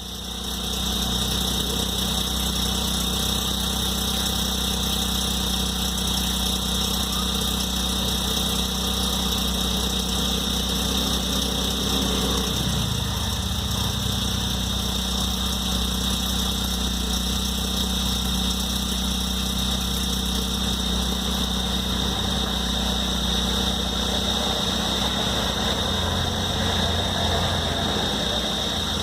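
Hyundai Venue's 1.0-litre turbo petrol three-cylinder engine idling steadily on a cold start, with a steady high whine over the idle. It is the cold-start engine noise that the owner says Hyundai has been unable to fix.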